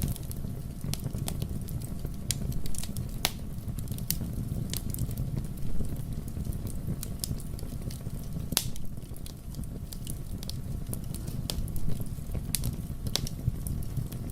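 Wood fire in a fireplace burning, with a steady low rumble of flame and frequent irregular sharp crackles and pops.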